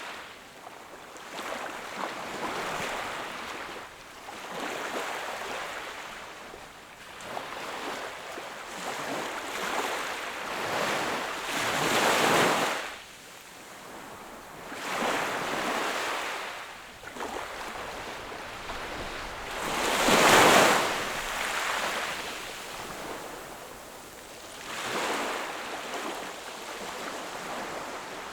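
Small waves breaking and washing on a beach, swelling and ebbing every few seconds, with two louder breakers about twelve and twenty seconds in.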